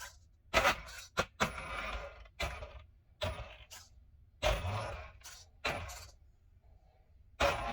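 A run of about a dozen sharp clinks and clattering impacts in irregular succession, each with a short ringing tail, like small hard objects being dropped or knocked together.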